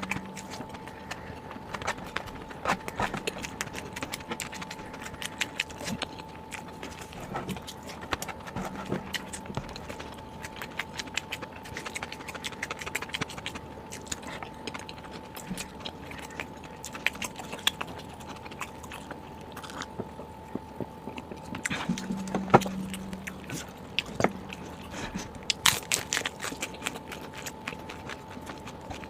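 Close-miked eating: irregular wet clicks and crunches of a person chewing and biting food, over a faint steady high hum.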